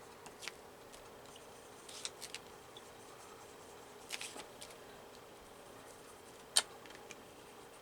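Scattered light clicks and taps of art supplies being picked up and handled at a work table, a few at a time, with the sharpest click about two-thirds of the way through, over a faint steady hum.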